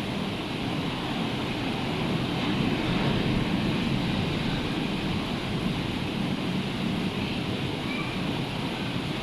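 Surf of a rough sea breaking, a continuous rushing noise that swells a little a few seconds in.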